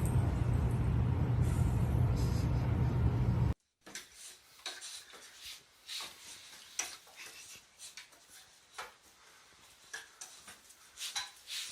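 A steady low rumble that cuts off abruptly about three and a half seconds in, followed by a quiet stretch with scattered light clicks and taps.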